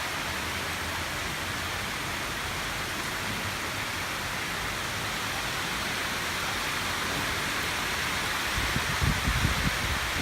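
Heavy rain falling steadily, a dense even hiss, with a low rumble near the end.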